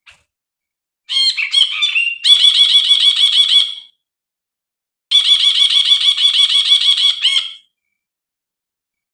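Brinji, a bulbul, calling: two rapid chattering phrases of quickly repeated high notes, each about two and a half seconds long, with a pause of about a second between them.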